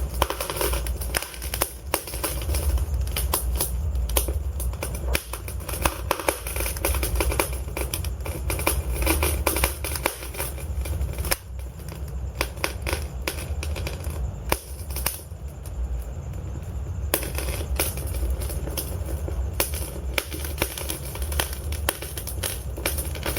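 Wood logs burning in a fireplace: a dense, irregular run of sharp crackles and pops over a low steady rumble, with fewer crackles for a few seconds around the middle.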